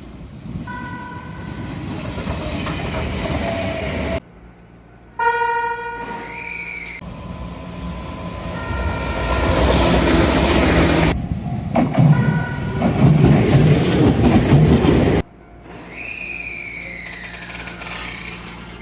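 Shizuoka Railway electric commuter trains sounding their horns: about four short horn blasts in separate clips, over the rumble and clatter of the trains running. A falling whine comes near the end.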